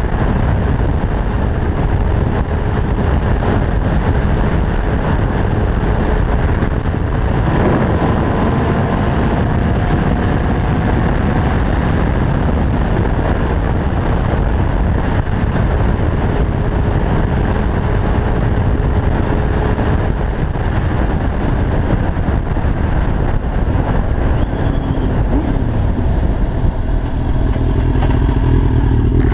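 Yamaha FZR 600's inline-four engine with a Yoshimura exhaust running at speed under heavy wind rush. Its pitch rises for a few seconds from about seven seconds in, then settles back to a steady note.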